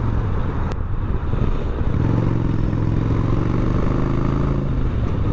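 Yamaha Bolt's air-cooled V-twin engine running on the move. Its steady note breaks up for about the first two seconds, then comes back steady with a slight rise and fall in pitch.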